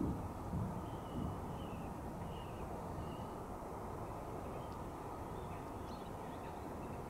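Birds calling outdoors: a run of short calls in the first few seconds and a few fainter ones later, over a steady low rumble.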